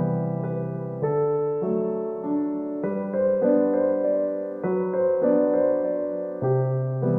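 Background music: a gentle piano or electric-piano piece with sustained chords that change every second or so.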